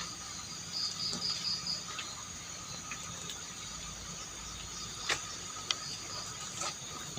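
Chorus of crickets and other insects, a steady high-pitched trilling at several pitches at once. A short pulsing chirp comes about a second in, and a few sharp clicks come near the end.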